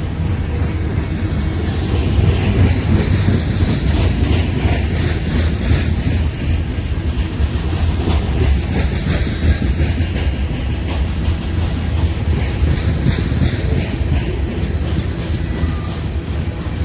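Freight train cars rolling past close by: a steady heavy rumble of wheels on rail, with scattered clicks as the wheels cross rail joints.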